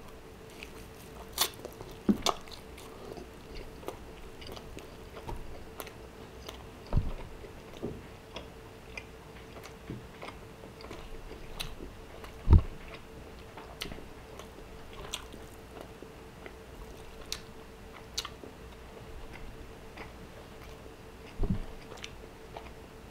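A man chewing a large bite of grilled New York strip steak (churrasco) close to the microphone: wet mouth sounds and many small clicks. A few dull thumps stand out, the loudest about halfway, over a faint steady hum.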